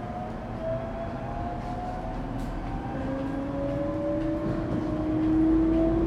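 Echigo TOKImeki Railway ET127 series EMU's Toyo GTO-thyristor VVVF inverter and traction motors whining as the train accelerates, several tones slowly rising in pitch over the running rumble, growing louder near the end.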